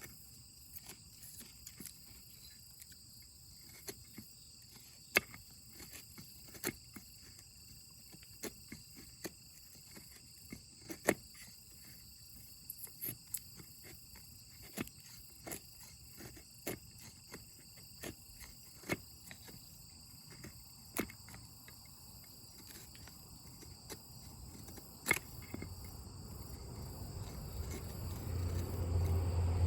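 Campfire wood crackling with irregular sharp pops, over a steady trilling of insects. A low rumble builds near the end.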